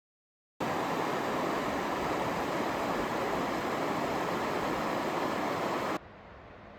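River water rushing, a loud, steady, even roar that starts abruptly a little over half a second in and drops suddenly to a much fainter hiss about six seconds in.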